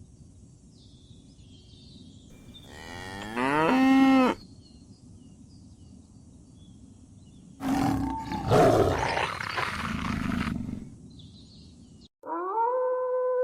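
Two loud calls from a large animal over faint outdoor ambience with small bird chirps: the first rises in pitch for about a second and a half, and the second is rougher and lasts about three seconds. Near the end the sound cuts abruptly to a different, steady held call.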